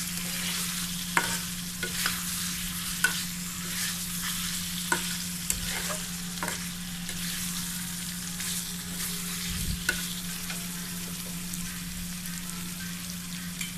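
Eggs being stirred through sizzling spice paste in a pan: a steady frying sizzle with a spatula scraping and knocking against the pan about seven times. A steady low hum runs underneath.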